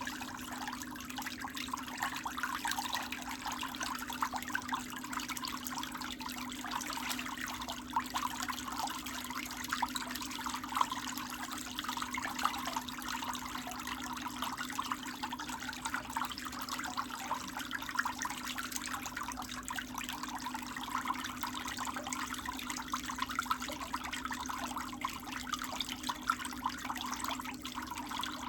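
Electric nail drill running steadily, a constant hum under a gritty crackle as the bit files the nail.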